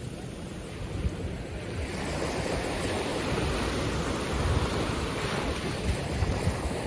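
Ocean surf washing on a beach, with wind rumbling on the microphone; the wash swells about two seconds in.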